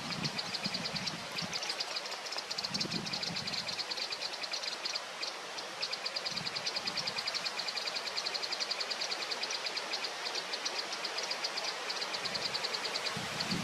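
Outdoor nature ambience: a fast, even, high-pitched pulsing trill runs on over a steady hiss, with a few soft low thumps.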